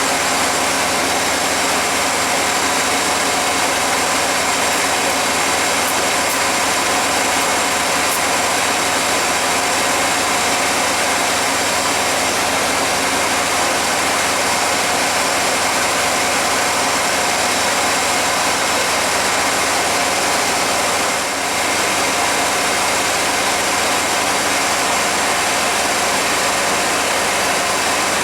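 1991 GMC Jimmy's engine idling steadily, heard close up as a continuous loud rush.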